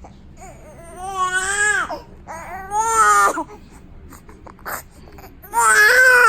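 Newborn baby crying in three wails of about a second each, every one rising and then falling in pitch, with short pauses between.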